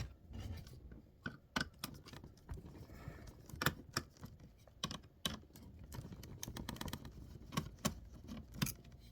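Small parts of an opened laptop being handled: irregular sharp clicks and taps of plastic and metal.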